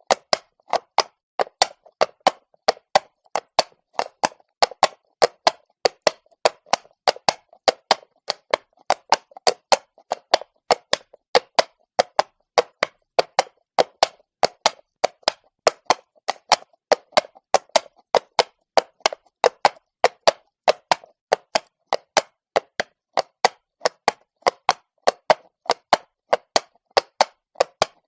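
Horse's shod hooves walking on cobblestones: a steady four-beat run of sharp clops, about three or four a second.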